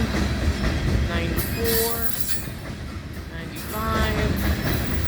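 Loaded coal hopper cars rolling past: a steady rumble of steel wheels on rail.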